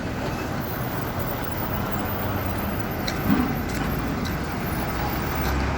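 Road traffic noise with vehicle engines running and rumbling steadily, with one short louder sound about three seconds in.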